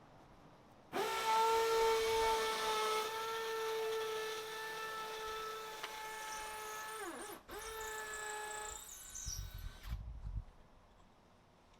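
Electric power tool motor running with a steady high whine, starting abruptly about a second in. Around two-thirds of the way through it briefly winds down and then back up, and it stops a couple of seconds before the end.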